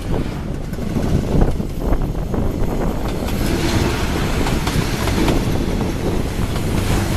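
Train rolling over a railway bridge, its wheels clattering on the rails, the noise growing fuller and brighter about three seconds in.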